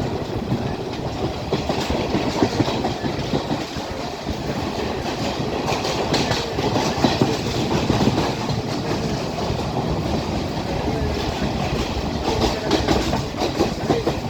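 Class S12 diesel multiple unit running along the track: a steady rumble of wheels on rail with irregular clattering clicks.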